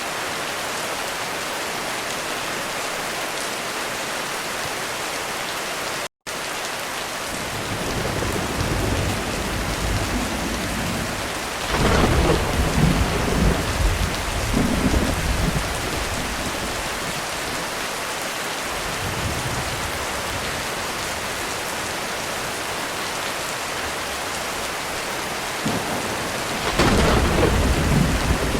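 Heavy thunderstorm: steady rain hiss throughout, with rolling thunder building a few seconds in. A loud peal of thunder comes about twelve seconds in and rumbles on for several seconds, and another peal comes near the end. The sound cuts out for a split second about six seconds in.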